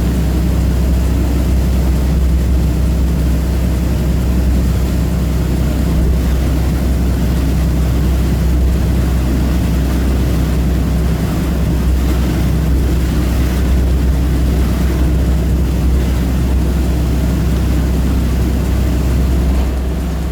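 Passenger catamaran's engines running steadily at cruising speed, a constant low drone with an even hiss of water and air over it, heard on board. The level eases slightly near the end.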